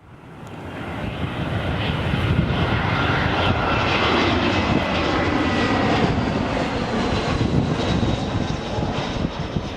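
Jet aircraft passing close, its engine noise swelling over the first couple of seconds and then holding as a loud rush with a thin whine over it that slides slightly lower midway.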